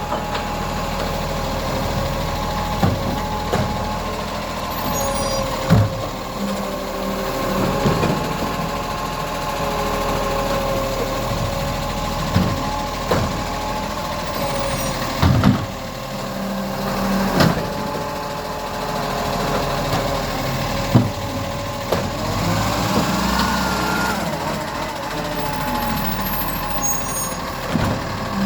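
Garbage truck running with a steady mechanical hum and sharp knocks every few seconds. About three-quarters of the way through, its pitch rises and falls.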